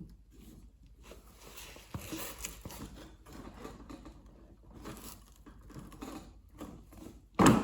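Faint scattered clicks, taps and scrapes of hands working at the underside of a tipped-over electric lawn mower, setting a block of wood against the blade, with a short louder knock near the end.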